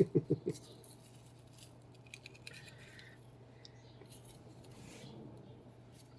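A quick run of four or five low thumps at the start, then faint scraping and light clicks from the hair-clogged brush roll of a Samsung Jet cordless vacuum as the tangled hair is worked off it.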